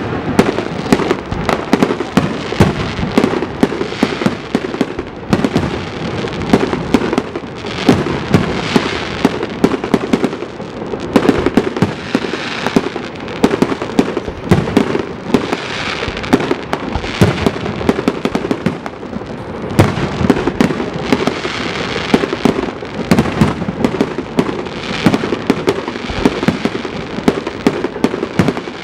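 Aerial fireworks going off in a rapid, continuous barrage: many sharp bangs overlapping with crackling, without a break.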